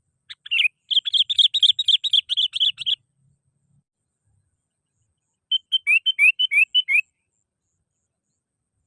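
Sooty-headed bulbul calling: a fast run of clear chattering notes for about two seconds, then after a pause a shorter run of down-slurred notes.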